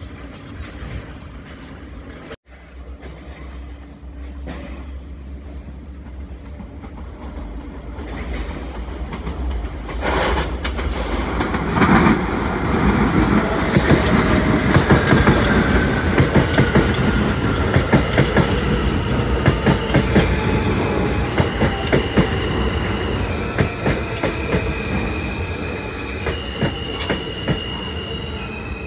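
New York City Subway L train running through the station, its wheels clattering rapidly over the rail joints as it draws close about ten seconds in. In the second half, high wheel squeals hold steady pitches that step up and down as the sound begins to fade.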